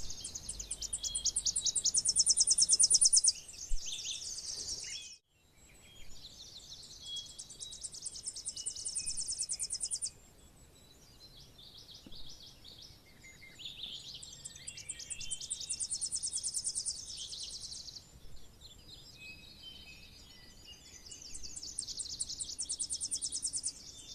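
Tennessee warbler singing: four high, loud songs, each a run of rapid sharp repeated notes that speeds up into a fast dry trill, coming about every six to seven seconds, with fainter chips between them.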